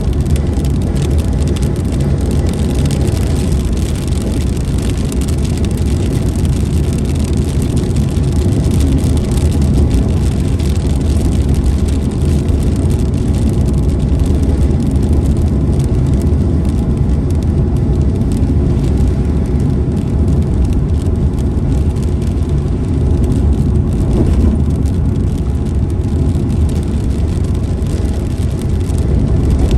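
Steady noise of a car driving through rain: a continuous deep rumble with a fainter hiss above it.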